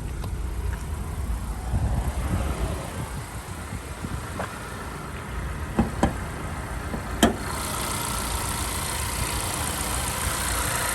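2016 Honda CR-V's four-cylinder engine idling, with a few sharp clicks as the hood is released and raised; after the last click, about seven seconds in, the engine sounds louder and brighter.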